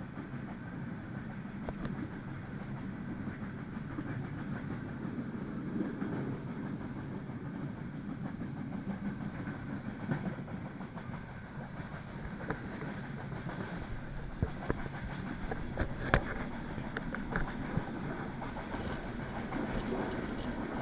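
Passenger train running, heard from inside the carriage: a steady rumble of wheels on the rails, with a few sharp clacks in the second half.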